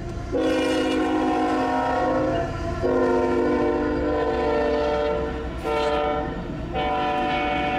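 Norfolk Southern freight locomotive's multi-chime air horn blowing the grade-crossing signal: long, long, short, long, with the last blast still held. Underneath is the low rumble of the locomotives and wheels going through the crossing.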